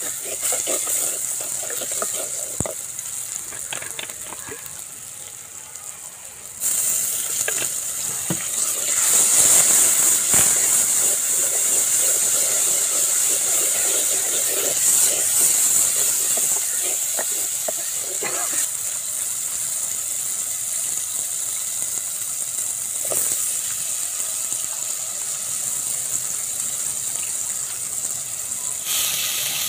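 Onions and spices sizzling in hot oil in a clay cooking pot, stirred with a wooden spoon that knocks and scrapes against the pot now and then. The sizzle jumps abruptly louder about six or seven seconds in and stays strong.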